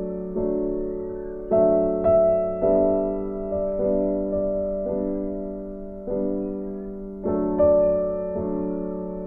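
Slow, gentle background piano music: soft chords struck about once a second, each fading away before the next.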